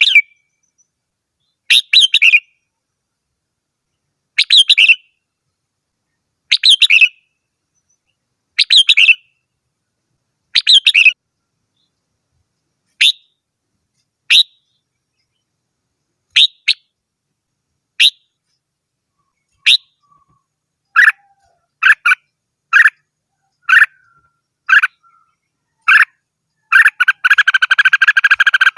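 Red-whiskered bulbul singing: short song phrases repeated about every two seconds, then shorter, quicker calls about once a second, running into continuous chattering near the end.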